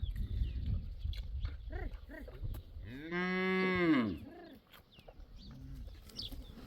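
A farm animal's single long call, moo-like, lasting about a second from about three seconds in, followed by a couple of fainter short calls a little later.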